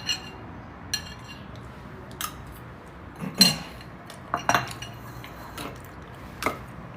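A spoon clinking and scraping against a bowl, in scattered separate strikes, the loudest about halfway through.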